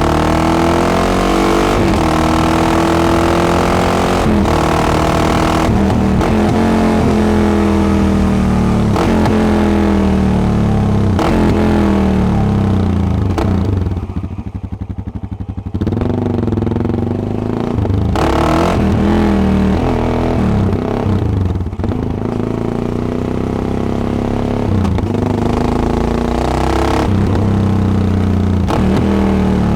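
Yamaha XT660X's single-cylinder engine through a Devil carbon exhaust, ridden on the road: revs rise and fall repeatedly as the rider works the throttle and shifts gears. About halfway through the revs drop briefly to a low, quieter note before the engine pulls again.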